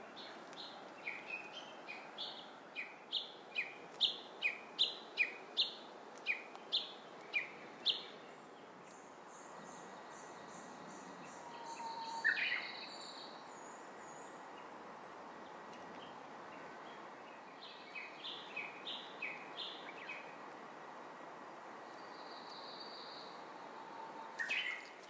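Songbirds calling: a two-note phrase repeated about twice a second, getting louder, then breaking off about eight seconds in. Thin high notes follow, and the repeated phrase comes back more briefly later, over a steady background hiss.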